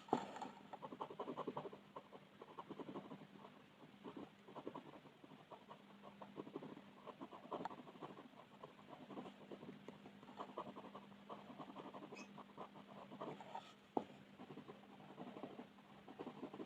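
Rapid scratchy colouring strokes on paper, coming in runs with short pauses. There is a sharp tap about 14 seconds in, and a faint steady hum underneath.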